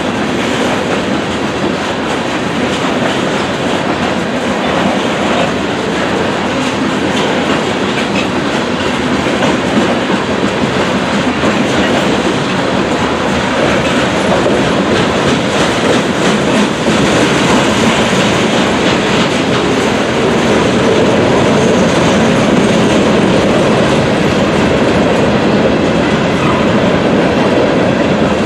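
CSX freight train rolling through a grade crossing, with a steady rumble of wheels and the clickety-clack of the cars over the rail joints, growing slightly louder in the second half.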